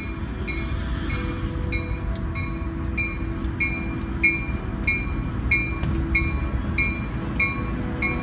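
A train passing with a steady low rumble while a warning bell rings in an even beat, about two strikes a second.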